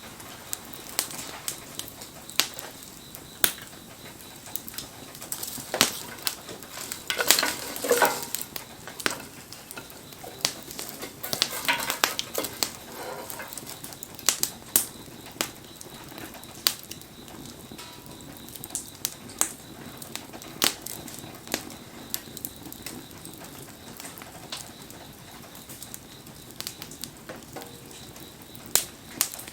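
Wood campfire crackling, with frequent sharp pops over a steady hiss, and busier flurries of crackling about seven and twelve seconds in.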